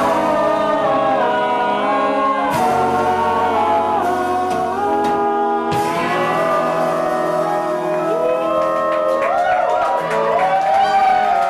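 Live band playing a song with a singer. The notes are held and change every second or two, with sliding, bending pitches toward the end.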